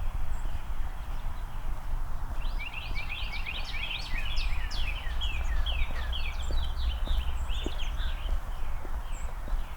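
Songbirds twittering in a quick, dense run of short chirps that each drop in pitch, starting about two seconds in and thinning out near the end, over a low outdoor rumble and the soft tick of footsteps.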